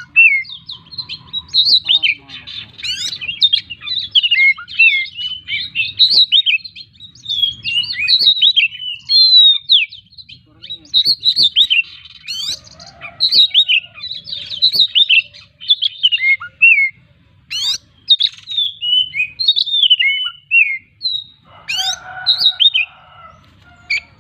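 Oriental magpie-robin (kacer) singing a fast, unbroken song of varied whistles and chirps, packed with mimicked phrases, with frequent sharp, upward-sweeping whip notes.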